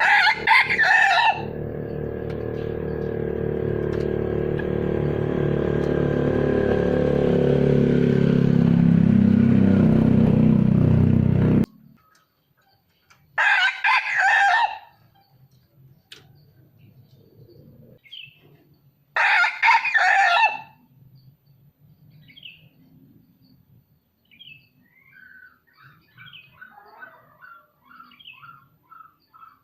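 Red junglefowl crowing: three short crows, the first over a steady droning sound that cuts off suddenly about twelve seconds in, the other two about six seconds apart. Small birds chirp faintly near the end.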